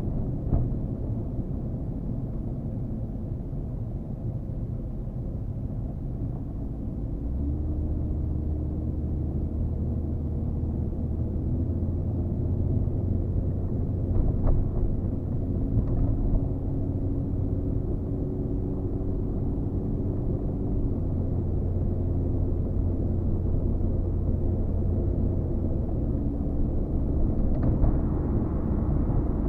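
Toyota Chaser's 1JZ-GTE turbocharged straight-six heard from inside the cabin while driving, a steady engine drone under road noise, running on freshly fitted iridium spark plugs. The engine note steps up about a quarter of the way in and shifts again near the end.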